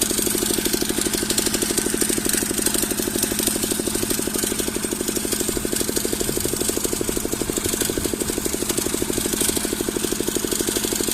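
Engine of a Zubr heavy walk-behind tractor running steadily under load with a rapid, even pulse, hauling a loaded trailer up a small rise while its wheels slip but keep it moving.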